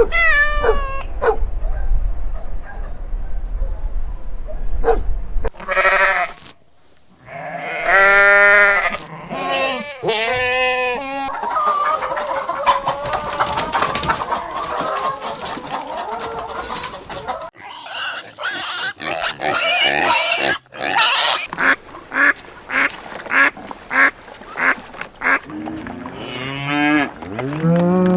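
A string of different animal calls cut one after another, mostly farm birds and livestock: long pitched calls in the first half, then a run of short, rapidly repeated calls near the end.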